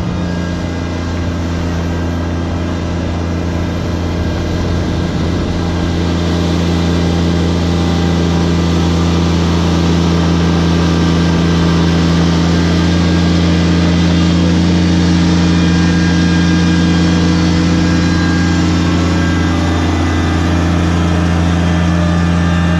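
Kubota BX2360 sub-compact tractor's three-cylinder diesel engine running hard and steady at high revs, under load while pulling a heavy truck on a chain. The engine grows a little louder over the first several seconds, then holds level.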